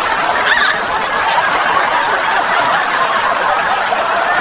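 A crowd of people laughing and chattering together, a dense, steady wash of many voices.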